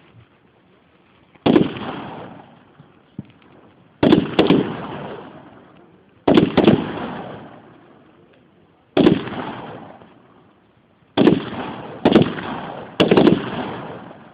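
Heckler & Koch G3 7.62×51mm battle rifles firing single shots and quick pairs, about ten shots at uneven intervals, each with a long rolling echo.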